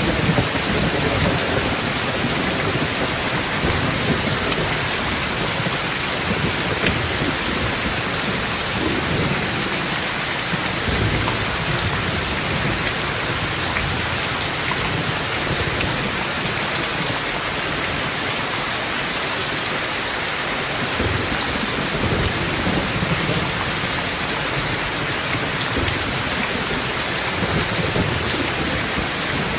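Heavy rain pouring steadily in a thunderstorm, with low thunder rumbling up several times: near the start, about ten seconds in, and again a little past twenty seconds.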